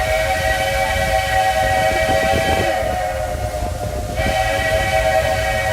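Steam locomotive's chime whistle blowing long, steady blasts of several tones at once, easing for about a second in the middle before sounding again, over the low rumble and hiss of the moving train.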